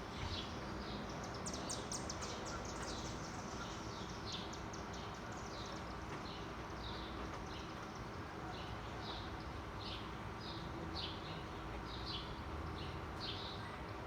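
A bird chirping over and over, short calls repeated about once or twice a second, with a quick rapid run of notes about two seconds in, over steady outdoor background noise.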